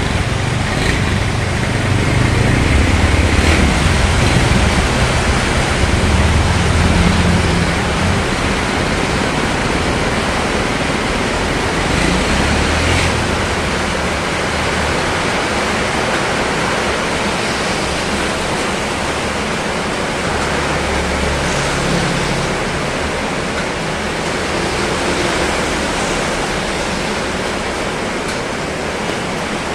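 Heavy rain falling steadily in a strong wind, with low rumbling gusts of wind on the microphone, strongest in the first several seconds and again about three quarters of the way through.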